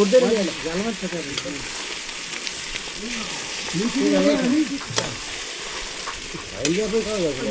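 Food frying in a pan with a steady sizzling hiss as it is stirred. Short pitched sounds rising and falling come over it about a second in, again around four seconds in and near the end, and there is a single sharp click midway.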